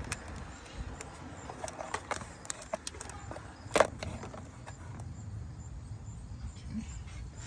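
Scattered light clicks and knocks of hand work on a car's engine vacuum lines, with one sharper knock about four seconds in, over a low steady rumble.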